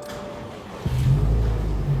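A car engine starting up a little under a second in, then running steadily with a low, even hum.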